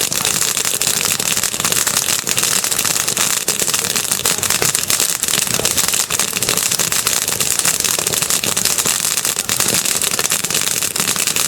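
Bonfire burning with a dense, steady crackle: many small sharp pops over a loud hiss, with no single large bang.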